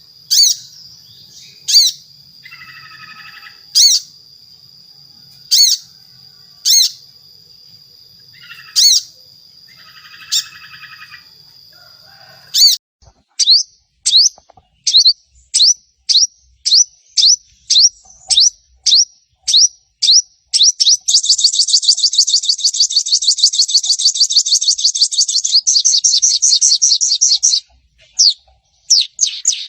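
Sunbird (sogon) calling: sharp, high, falling notes, at first spaced out over a steady high tone with a few lower raspy bursts. About thirteen seconds in they come about twice a second, and around twenty-one seconds in they give way to a rapid chattering trill lasting several seconds. These are the 'shot' and chatter calls used as a lure to set other sunbirds singing.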